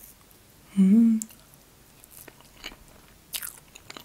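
A person chewing a spoonful of soft, creamy red velvet cake, with a short hummed "mmm" of approval about a second in, then soft wet mouth clicks and smacks as she chews.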